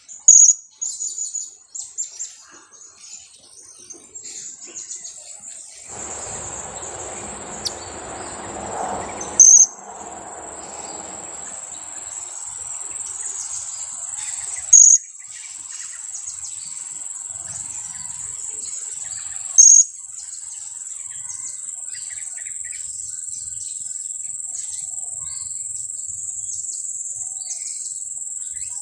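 Two-week-old blue-crowned hanging parrot (serindit) chick calling: loud, sharp, high chirps about every five seconds, four in all, among fainter chirps, over a continuous high-pitched insect-like trill. A few seconds of soft rustling noise come about six seconds in.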